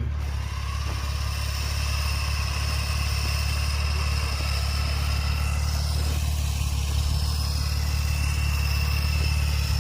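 Jeep Cherokee engine idling steadily: a low, even hum with a faint high whine over it.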